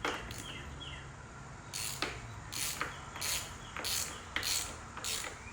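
Hand-tool work on a dirt bike: a run of short, rasping strokes, roughly one every half second or so, beginning about two seconds in.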